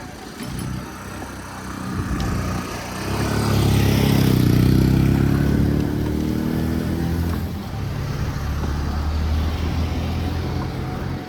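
A motor vehicle's engine passing close in street traffic, rising in pitch as it accelerates and loudest about four to five seconds in, then fading to a steady low traffic hum.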